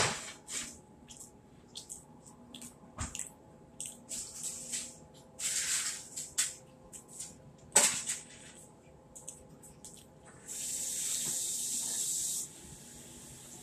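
Close-miked eating sounds of fried fish being chewed: a run of short, irregular mouth clicks and smacks, with a few louder clicks and a steady hiss lasting about two seconds near the end.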